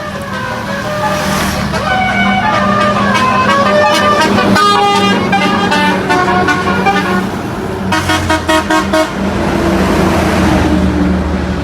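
Truck's Basuri multi-tone melody horn playing a tune of stepping notes, with a fast-pulsing warble a little before the middle and a run of short repeated honks about two-thirds through. A steady low drone runs underneath.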